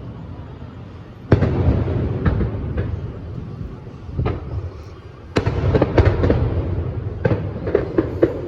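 Aerial fireworks bursting: a few sharp bangs a second or more apart, the loudest about five seconds in, each followed by a low rolling rumble. A run of quick crackling pops follows in the last few seconds.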